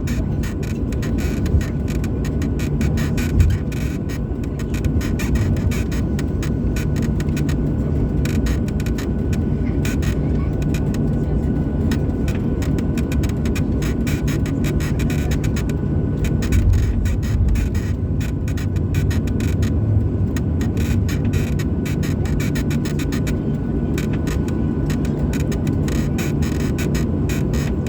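Steady engine and airflow noise of a Boeing 737-800 heard inside the passenger cabin, a low rumble with a few faint steady tones over it.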